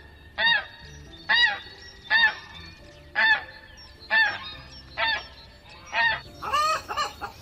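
Canada geese honking, about one honk a second, with a quicker run of overlapping honks near the end.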